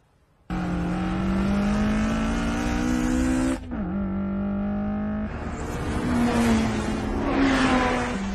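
Sports car engine at high revs in a mountain downhill race, cutting in suddenly and climbing in pitch for about three seconds, dropping sharply about three and a half seconds in, then climbing again. A rushing tyre squeal swells over it in the second half as the car corners.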